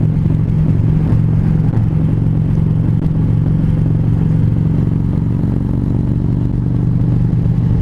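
Harley-Davidson V-twin motorcycle engine running steadily at highway cruising speed, a low, even engine drone.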